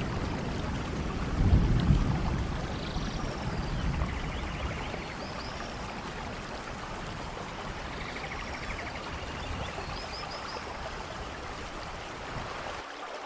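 Steady rainforest rain, with a low rumble of thunder in the first couple of seconds that dies away. A few short high chirps and trills are heard above the rain.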